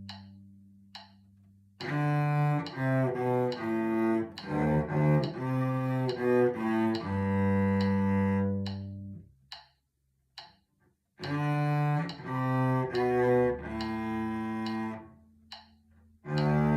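Solo cello played with the bow, slow phrases of separate low notes. A held note dies away at the start, then come two phrases of several notes each with a pause of about two seconds between them, and a new phrase begins near the end.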